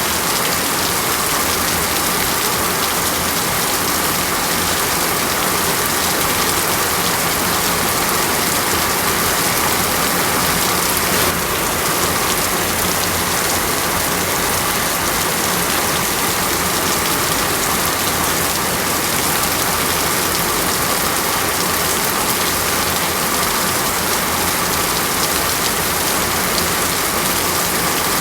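Steady heavy rain falling in a tropical rainforest: an even, unbroken hiss of rain with no thunder.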